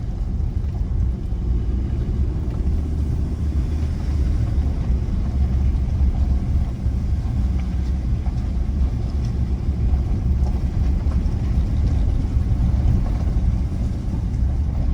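Ford Ranger ute driving along a road: a steady low rumble of engine and tyres.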